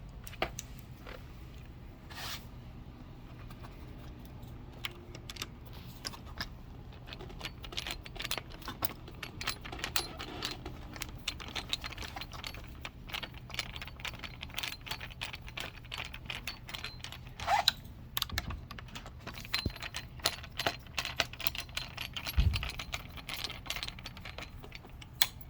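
Hand tool driving a screw into the scooter's plastic tiller cover: a long run of quick small clicks and rattles, with a few louder knocks near the end.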